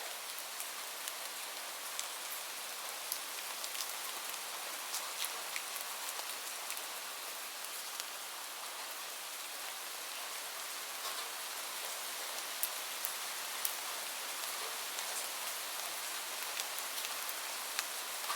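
Steady rain: an even hiss, with scattered sharp ticks throughout.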